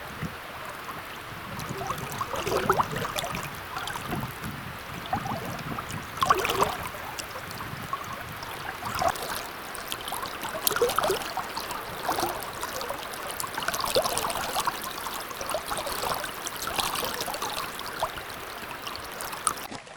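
Running water gurgling and trickling, with irregular small splashy sounds over a steady rush.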